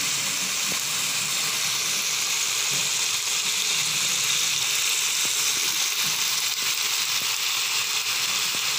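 Chicken pieces sizzling steadily as they fry in a wok, with a few faint ticks.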